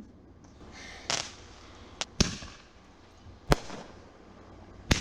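Consumer fireworks going off: five sharp bangs spread irregularly over the few seconds, two of them close together, with a short hiss leading into the first.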